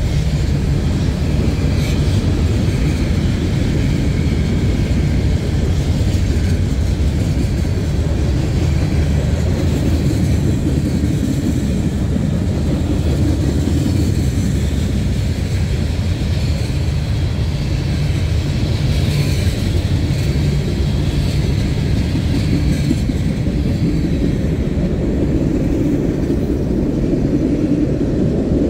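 CSX freight train of covered hoppers and tank cars rolling past close to the track: a steady, loud rumble of steel wheels on rail.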